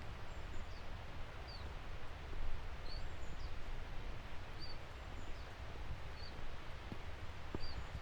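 A small songbird giving short, high chirps, about eight of them spaced roughly a second apart, over a steady background hiss with a low rumble.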